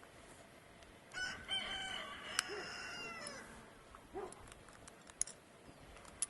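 A single drawn-out animal call about two seconds long, holding its pitch and then dropping at the end, with a few short low calls and sharp clicks around it.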